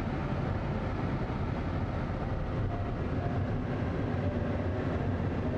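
Steady, loud rumbling noise with no distinct events, starting abruptly at a cut.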